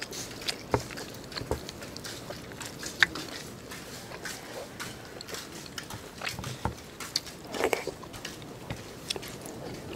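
Chewing and mouth sounds of a man eating braised pork (lechon paksiw) by hand: irregular smacks and short sharp clicks, with a louder run of them about three quarters of the way through.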